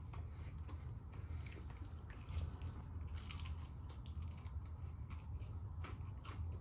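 Close-miked biting and chewing of crispy KFC fried chicken: wet mouth sounds with scattered short crunches and crackles, over a steady low hum.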